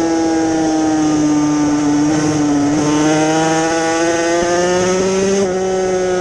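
Yamaha TZ250 two-stroke race motorcycle engine running hard at high revs. Its pitch sags slowly, climbs from about three seconds in, then drops suddenly near the end.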